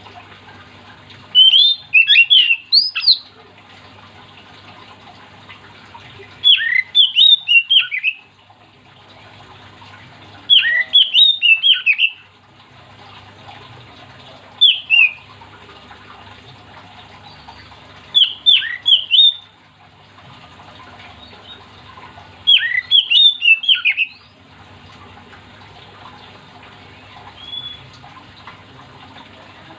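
Oriental magpie-robin (kacer) singing loud, short phrases of quick, sharp whistled notes, one phrase about every four seconds, over a faint steady hum.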